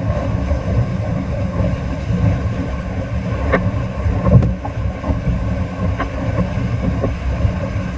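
Whitewater rapids rushing and churning, a loud rumbling wash with heavy buffeting on the microphone, broken by a few sharp knocks about halfway through.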